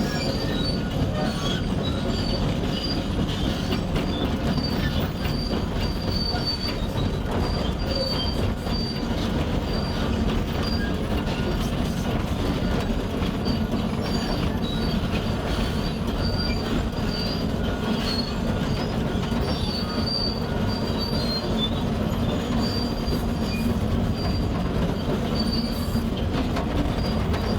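Hydraulic excavator travelling on its steel tracks up a steep pile, its diesel engine running under load, with a steady rumble and a repeated high squeal from the tracks.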